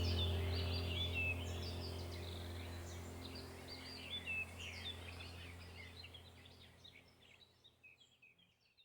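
Birds chirping over a steady low drone, the whole sound fading out gradually to silence near the end.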